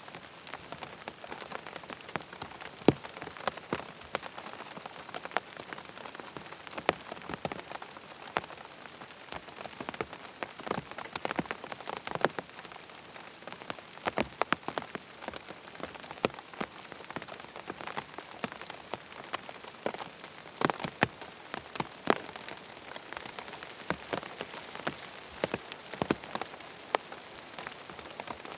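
Steady rain: a constant hiss with many sharp, irregular drops ticking on a hard surface.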